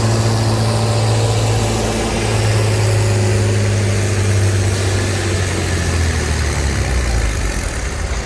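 Antique tractor engine running loud and steady, its pitch dipping slightly a couple of seconds in and fading near the end.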